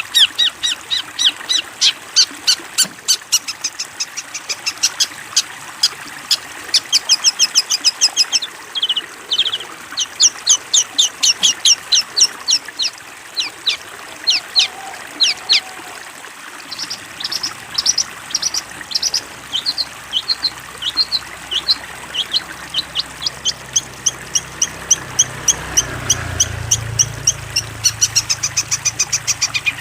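Long-tailed shrike (cendet) song: a fast run of short, sharp, high chirping notes, about four or five a second, with brief pauses. A low rumble sits under the song in the second half.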